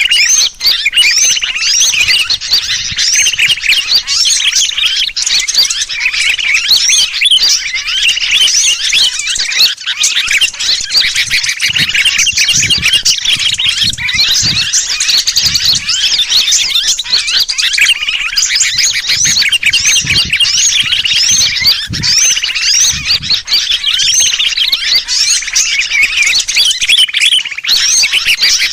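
Dense, unbroken chorus of many small birds chirping rapidly, mixed with the distress calls of sooty-headed bulbuls: a bird-luring call recording meant to draw wild birds in.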